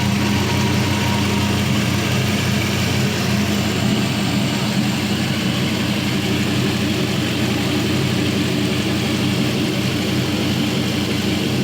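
Chevrolet 4.8L LR4 Gen 3 LS V8 idling steadily at about 700 rpm while it warms up.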